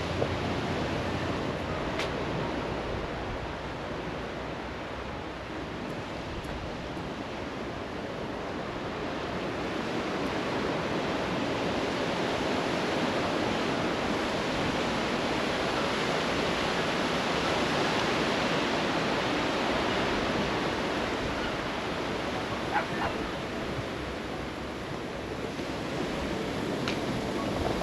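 Sea surf washing on the beach: a steady hiss of breaking water that slowly swells, loudest around the middle, and then eases off, with a few faint ticks.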